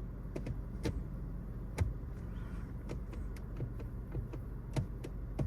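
BMW M240i's turbocharged inline-six idling steadily, heard from inside the cabin as a low hum, with scattered light clicks over it.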